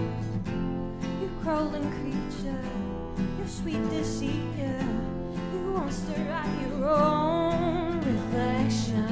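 Two acoustic guitars strumming chords, with a sung vocal line coming in about one and a half seconds in and holding long wavering notes over them.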